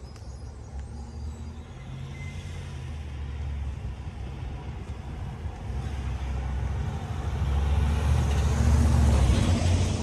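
A motor vehicle approaching along the street: a low engine hum with tyre noise that grows steadily louder, loudest about eight to nine seconds in as it passes close by.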